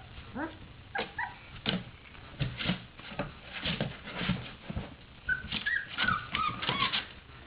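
Three-week-old Portuguese Water Dog puppies whimpering and yipping as they play, with a cluster of short high squeals in the second half among scattered short knocks.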